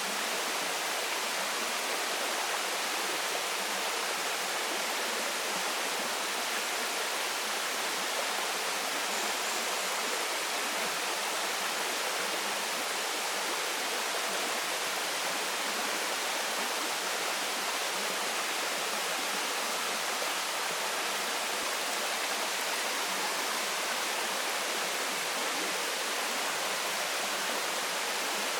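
Waterfall pouring into a stream: a steady, even rush of falling water.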